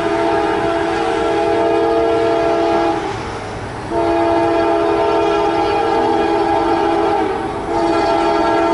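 Locomotive air horn sounding several notes together in long blasts, broken twice by short gaps, over the steady noise of the passing train.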